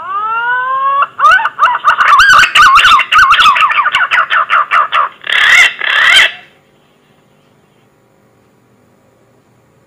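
Green pigeon (punai) call played as a hunter's lure: a rising whistle, then a quick run of warbling, wavering whistled notes, ending in two louder, rougher notes about five and six seconds in.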